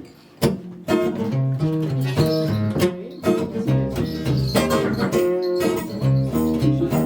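Acoustic guitar played live, starting about half a second in with plucked chords over a repeating bass line after a brief pause.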